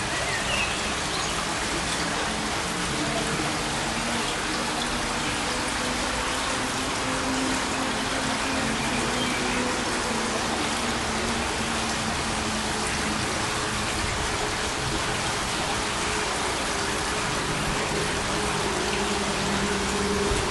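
Steady rushing noise with a faint low drone underneath, unchanging throughout.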